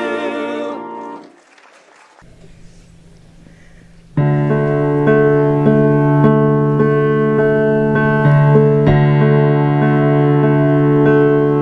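A held sung note at the end of a hymn fades out, followed by a brief lull. About four seconds in, a keyboard starts a slow introduction of sustained chords with steadily repeated notes.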